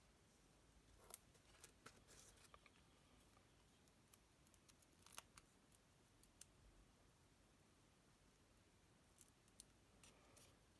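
Near silence broken by faint, scattered small clicks and crinkles of foam adhesive dimensionals being peeled from their backing sheet.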